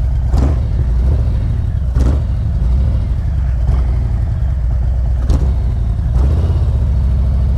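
Motorcycle engine idling steadily, with three short clicks over it, about half a second, two seconds and five seconds in.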